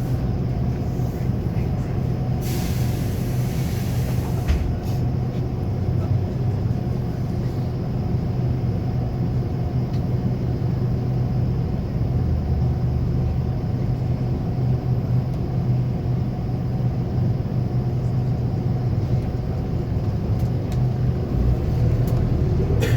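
A Scania K280UB4 bus's nine-litre five-cylinder diesel running steadily under way, heard from inside the bus as a low drone. About two and a half seconds in comes a hiss of compressed air lasting a second and a half, typical of the air brake system.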